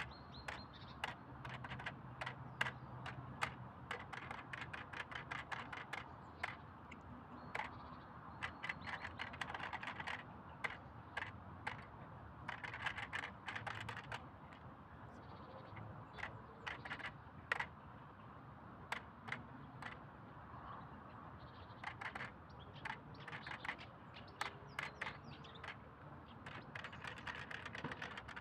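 Wild birds chirping: many short, sharp chirps, some coming in quick clusters and others spaced apart.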